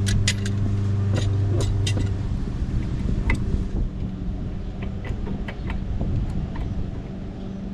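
Scattered sharp metal clinks and knocks of hand tools against brake parts, over a steady low hum that stops about two seconds in.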